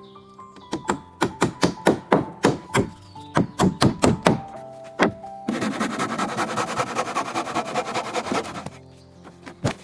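Background music over a run of quick, sharp knocks, about four or five a second, from work on wood, followed by about three seconds of rapid rasping and one last knock near the end.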